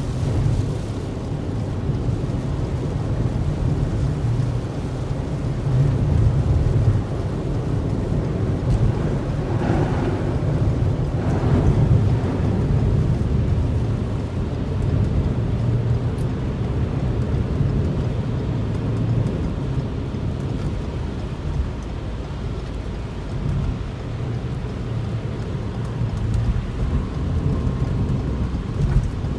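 Heavy rain with a steady deep rumble under it, swelling louder a couple of times about six and eleven seconds in.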